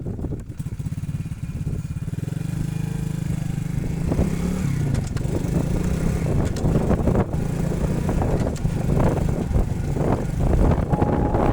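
Motorcycle engine running, its pitch rising and falling as it is revved from about four seconds in, with scattered knocks and clatter over it.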